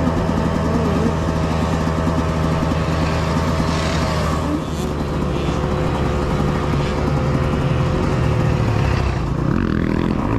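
Dirt bike engines running steadily, with a bike's engine revving up and down near the end.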